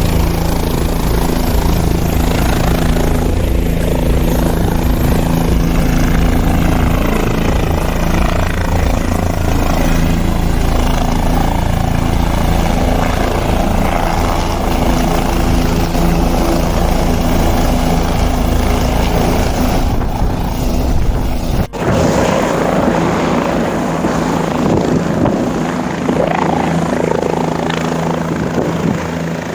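Helicopter running steadily in flight, a loud constant rotor and engine drone, broken by a short dropout about two-thirds of the way through.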